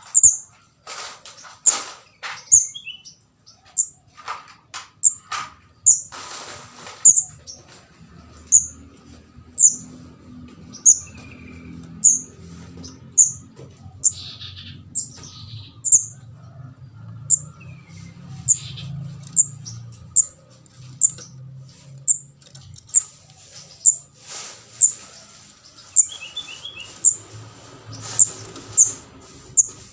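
Juvenile kemade jawa (ndas abang) bird giving short, sharp, high-pitched chirps about once a second, a begging call that bird-trappers use as a lure. A faint low hum runs under the chirps through the middle.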